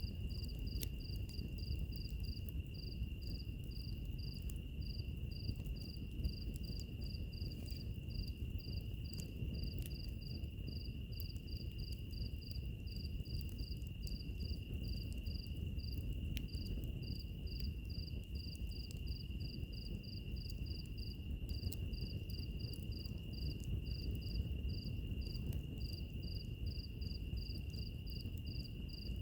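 Insects calling: one holds a steady high trill while another chirps in quick even pulses, about four a second. Beneath them runs the low rush of a fire, with occasional faint crackles.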